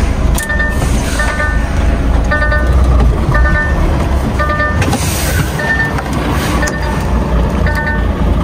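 Diesel truck engine idling with a steady low rumble, while short multi-tone electronic beeps repeat roughly once a second at uneven spacing, like vehicle reversing alarms at the loading docks.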